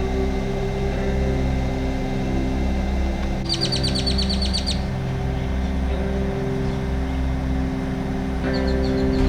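Background music of sustained, slowly changing chords, with a rapid trill of high chirps, about eight a second, a few seconds in and a shorter trill near the end.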